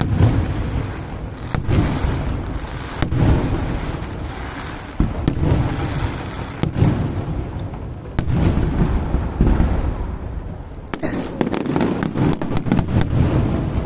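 Fireworks display: aerial shells bursting one after another about every second and a half, each a deep boom with a rolling rumble after it. Near the end comes a rapid crackle of many small pops.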